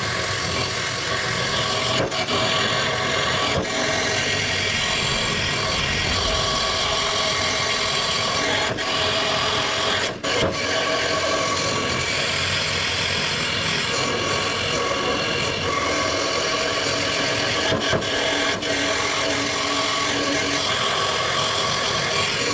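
Steady abrasive rasping of sanding on the steel front wing of a Daihatsu Mira turbo, unbroken apart from a few brief pauses.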